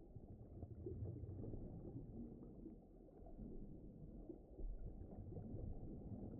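Faint, muffled ocean ambience: a low rumbling wash with nothing in the high range, gently swelling and fading in loudness.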